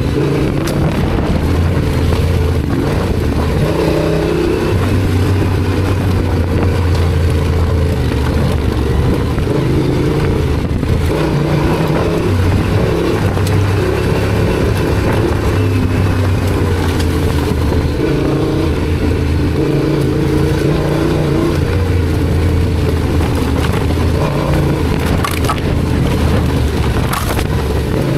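Yamaha Ténéré 700's parallel-twin engine running under way, its note rising and falling with the throttle and easing off briefly a few times, over a steady rushing noise.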